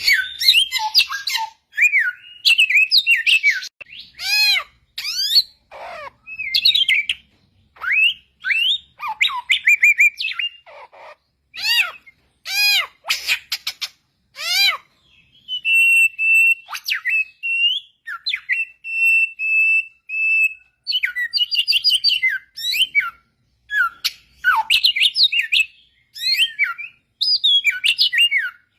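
Samyong bird singing clear, loud, varied whistled phrases, many notes sweeping quickly up and down, with a few held, steady whistles around the middle.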